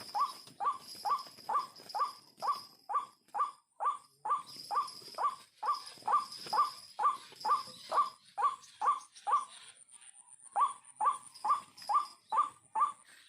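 White-breasted waterhen calling, a long series of short, evenly repeated notes at about two a second, broken by a brief pause about ten seconds in.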